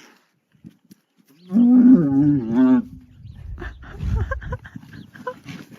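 An animal's low, drawn-out call, one wavering note lasting about a second and a half, followed by scattered knocks and rustling.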